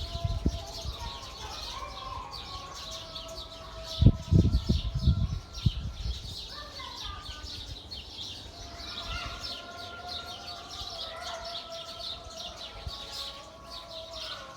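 A dense chorus of many small birds chirping rapidly and continuously, with some steady held tones underneath. A cluster of loud low thumps comes about four seconds in.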